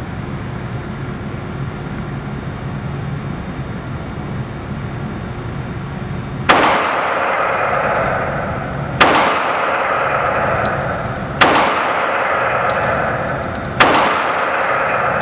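Four shots from a CZ 97B .45 ACP pistol firing Trajtech 185-grain semi-wadcutter match rounds, starting about halfway through and spaced about two and a half seconds apart, each with a long ringing decay. Before the first shot there is only steady background noise.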